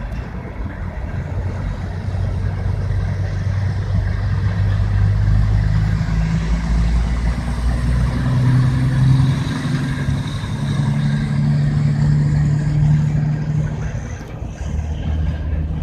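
Diesel locomotive engines of a CSX train running, a deep hum whose pitch steps up a few times around the middle, where it is loudest.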